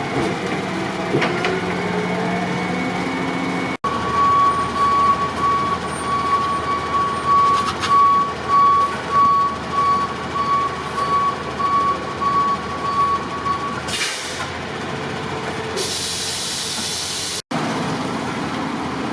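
Heavy fire truck idling while its reversing alarm beeps steadily, about once a second, then a hiss of air brakes near the end.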